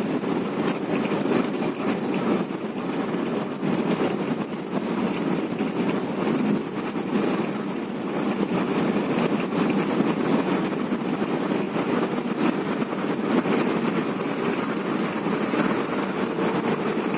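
Intercity bus on the move: a steady rumble of engine and road noise, even throughout.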